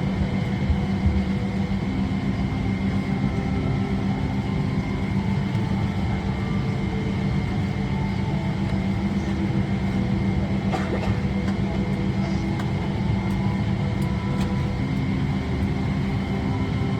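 Steady hum and rush of a Boeing 777-300ER's cabin air-conditioning with a constant low drone and a thin steady whine, the aircraft still at the gate before engine start. A few light clicks in the second half.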